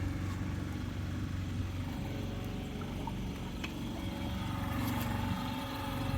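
Motorboat engine running steadily with the boat under way, a constant low hum.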